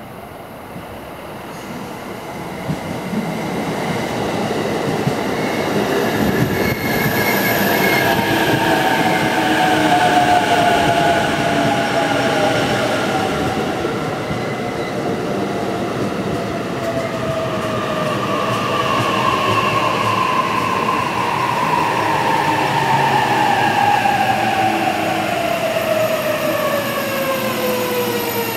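A 15-car JR electric commuter train pulling in beside the platform. Its rumble grows as it approaches, then the motors' whine falls steadily in pitch as it brakes to a stop.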